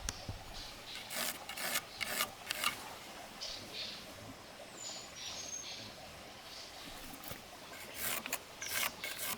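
Scraping strokes on wood, in a burst of several strokes about a second in and another near the end.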